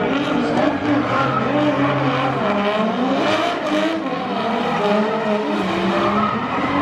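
Drift cars on track: their engines rev up and down in pitch as the throttle is worked, over tyre screech and hiss from the sliding tyres.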